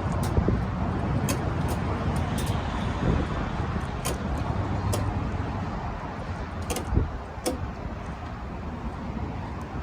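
Steady outdoor road-traffic noise with a few light clicks scattered through it; no engine note stands out.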